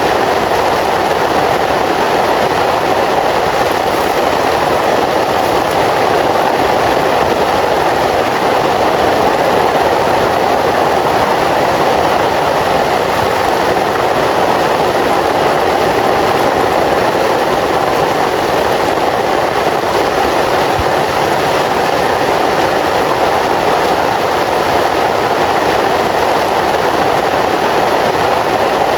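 Very heavy rain falling steadily, a dense unbroken hiss.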